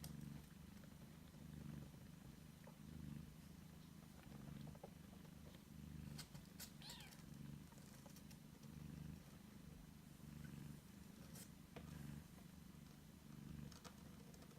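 A British Shorthair mother cat purring quietly while her newborn kittens nurse. The purr swells and fades in even pulses about every one and a half seconds, with a few faint clicks and a brief thin squeak about halfway through.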